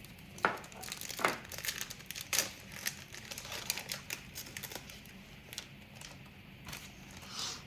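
Trading card pack wrapper being crinkled and torn open: a run of sharp crackles, busiest in the first three seconds and thinning out after, with a short rustle near the end.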